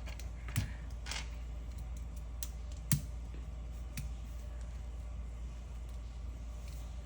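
Plastic Lego bricks clicking and knocking as they are handled and pressed together: a handful of sharp clicks, the loudest about three seconds in, with a short scrape of plastic near the first second.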